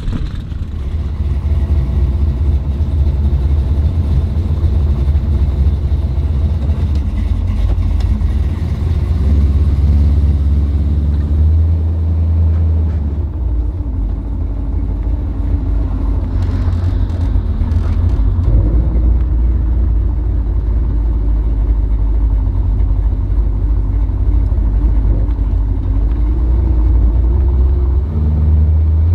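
Chevrolet Chevelle V8 running with a steady deep rumble at low speed, heard first from outside as the car rolls away, then from inside the cabin as it cruises, from about halfway through.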